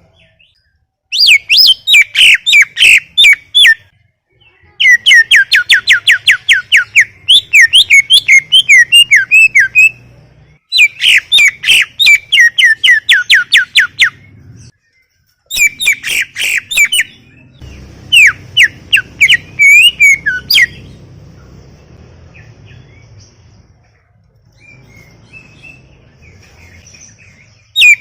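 Cucak ijo (green leafbird) singing: long runs of rapid, sharp whistled notes, several a second, in four bursts with short pauses between, then falling quiet for the last several seconds.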